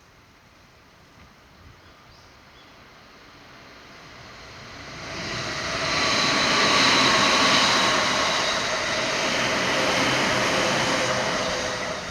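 A passing vehicle: steady rushing engine noise that swells over a few seconds, holds, and begins to fade near the end.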